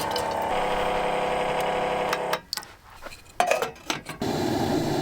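A small motor hums steadily for about two seconds and stops, followed by a few clicks and then a steady rushing noise.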